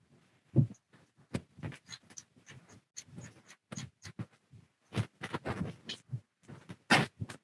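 Irregular quick clicks and taps of a computer mouse and keyboard, with a louder knock about half a second in and another near the end.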